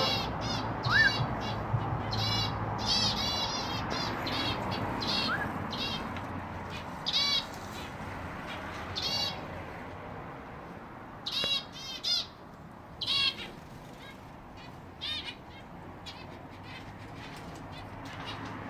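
Caged pet birds chirping in quick, high-pitched bursts, thickest in the first few seconds and thinning out later, with two short rising whistles among them.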